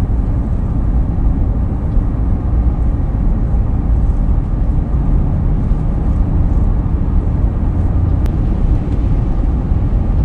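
A truck driving along a road: a steady low rumble of road and engine noise.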